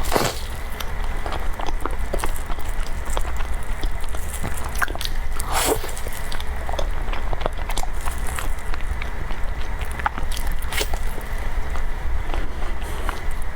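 Close-miked eating: wet mouth smacks and chewing clicks at an uneven pace, over a steady low hum.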